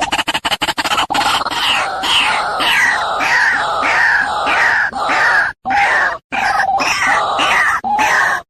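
White-breasted waterhen calling: a fast run of short notes, then from about a second in, harsh repeated 'kru-ak' calls at about two a second, with a couple of brief breaks.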